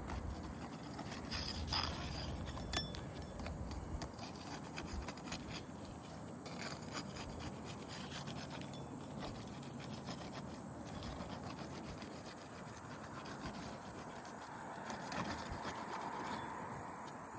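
A hand tool scraping and rubbing against roof shingles, with scattered light clicks.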